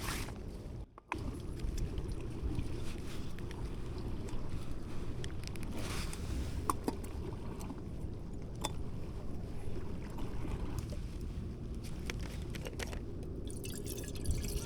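Steady low rumble of wind and sea at the shore, with a few light clicks.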